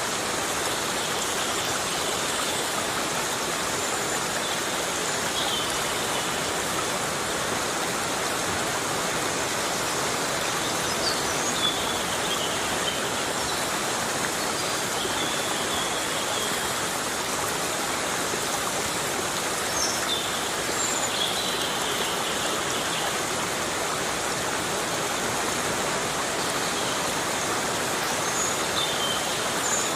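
Heavy rain falling steadily in a forest, an even, unbroken hiss of drops, with faint brief high chirps here and there.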